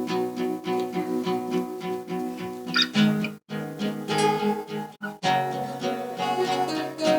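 String orchestra playing a passage of plucked, pizzicato notes, with two brief, sudden breaks in the sound.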